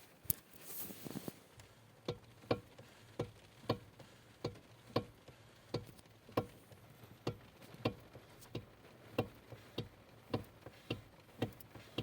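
Knocking in a Renault Megane II's steering as the wheel is rocked slightly back and forth: a regular clunk about three times every two seconds. The owner puts it down to either the electric power steering unit or the steering column's cardan shaft.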